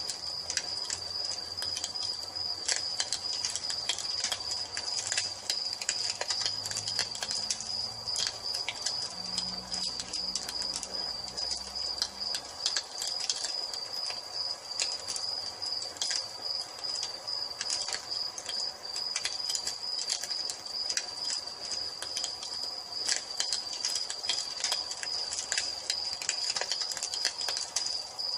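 Crickets chirring in a steady, continuous high trill over a wood fire crackling with irregular sharp pops. A faint low hum sits underneath for roughly the first twelve seconds, then fades.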